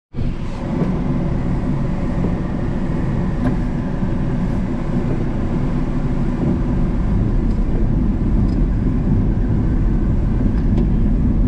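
Pickup truck running, a steady low rumble heard from inside the cab, with a few faint light ticks.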